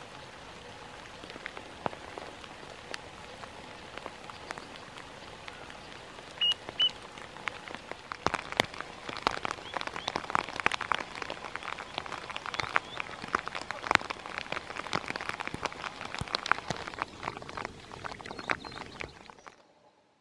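Raindrops pattering on a nearby surface, sparse at first and growing thick and steady about eight seconds in, then fading out near the end. Two short high bird chirps come about six and a half seconds in.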